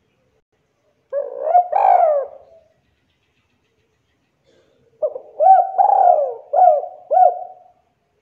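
Spotted dove (tekukur) cooing: a short coo phrase about a second in, then a longer phrase of about five quick rising-and-falling coo notes in the second half.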